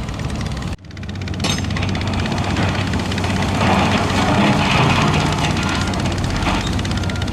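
Heavy diesel earthmoving machine engine running steadily under work. The sound cuts out abruptly for a moment just under a second in, then comes straight back.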